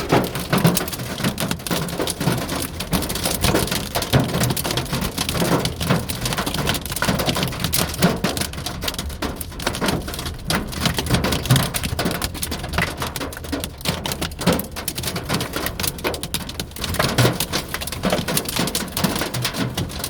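Hail falling with rain: a dense, steady clatter of countless small hits.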